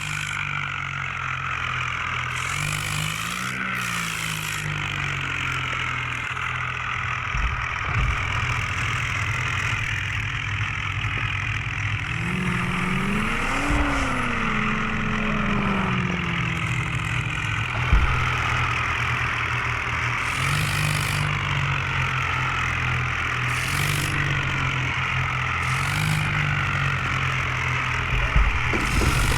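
Tractor engine running steadily, with one rise in engine speed about twelve seconds in that falls back a few seconds later. A few sharp knocks come through along the way.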